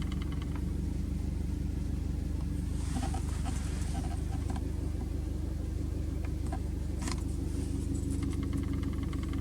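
Subaru Impreza WRX STI (GRB) engine idling steadily with a low, even hum. A brief hiss and a few light clicks come about three seconds in, and a sharp tick about seven seconds in.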